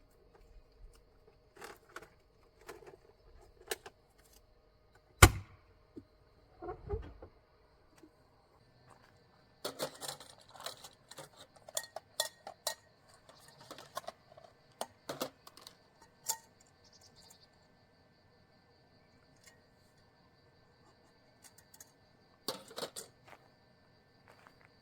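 Objects being handled: scattered clinks, rattles and knocks, with one sharp knock about five seconds in and a stretch of busy clatter in the middle.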